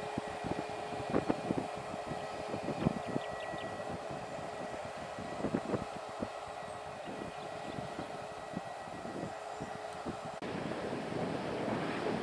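Aircraft engines running with a steady whine, while wind buffets the microphone in short thumps. The sound jumps a little louder about ten seconds in.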